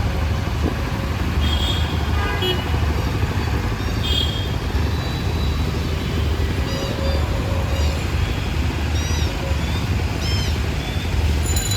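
City street traffic: a steady low rumble of vehicles, with several short, high horn toots scattered through.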